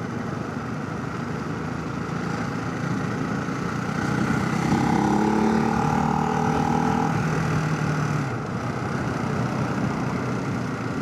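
Motorcycle riding onto a highway, heard from the rider's helmet: a steady rush of wind and road noise with the engine's hum underneath. The engine note swells and holds from about four to eight seconds in as the bike accelerates to merge, then eases off.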